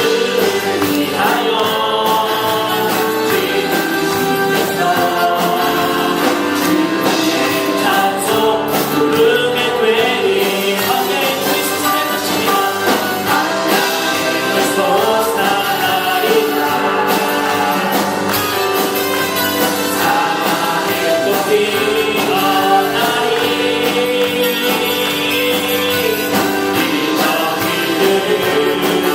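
A church congregation and choir singing a Christian worship song together, with instruments accompanying.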